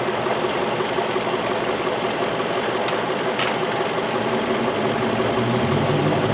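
2003 Infiniti M45's V8 engine idling steadily, running with no spark signal found on cylinders 5 and 7. There are a couple of light clicks about three seconds in.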